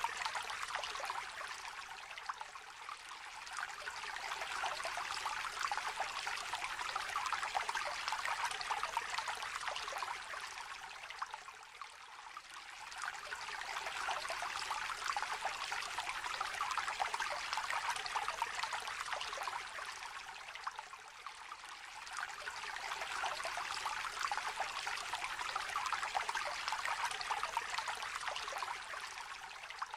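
Small, shallow stream trickling and babbling: a continuous splashy rush that swells and eases about every nine seconds.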